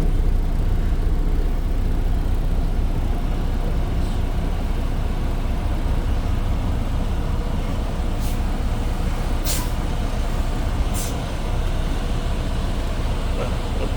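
Tractor-trailer's diesel engine running with a steady low rumble, with three short high hisses about eight, nine and a half and eleven seconds in.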